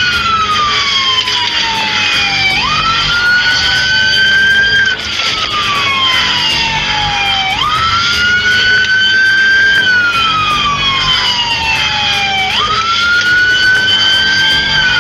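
Police car siren wailing, its pitch sweeping slowly up and down in a cycle of about five seconds.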